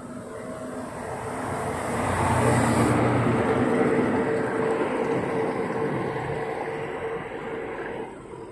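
A motor vehicle passing by: its engine and tyre noise build up to a peak about two to three seconds in, then fade away slowly over the next five seconds.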